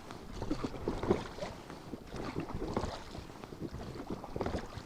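Small boat on choppy water in strong wind: muffled wind buffeting a covered microphone, with irregular small knocks and splashes of water against the hull.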